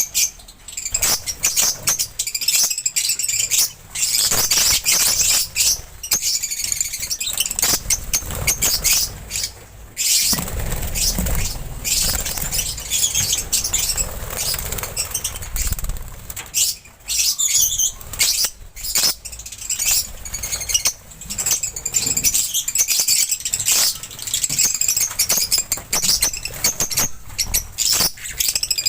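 Lovebirds chattering in high, rapid chirps, mixed with short clicks and rustling, likely from wing flaps. A low rumble runs for several seconds about ten seconds in.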